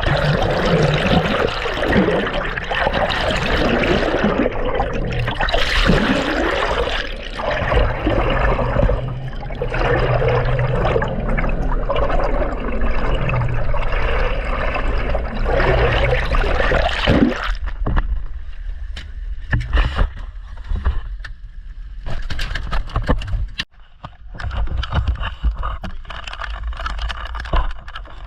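Water sloshing and gurgling on a small fishing boat, dense for about seventeen seconds, then thinning out to scattered knocks and handling noise over a low rumble.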